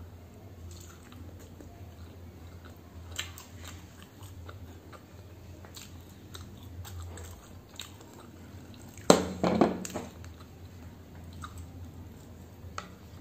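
Close-miked chewing and wet mouth clicks of someone eating soft steamed momo dumplings, over a low steady hum. About nine seconds in comes a louder, sudden burst of sound lasting about a second.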